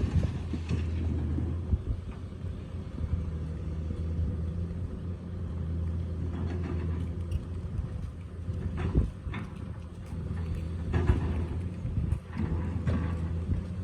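Excavator's diesel engine running steadily with a low hum, with a few short knocks partway through from the machine at work.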